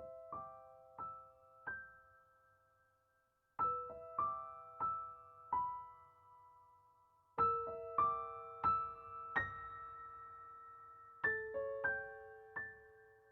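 Slow solo piano music: short phrases of single struck notes that ring out and fade, a new phrase beginning about every four seconds.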